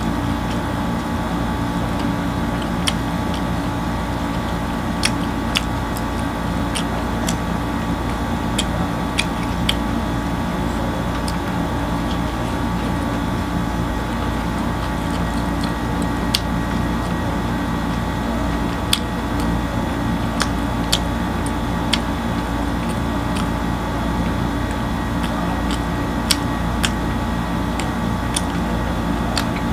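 Steady mechanical hum throughout, with scattered sharp clicks and smacks of close-miked chewing as pizza is eaten.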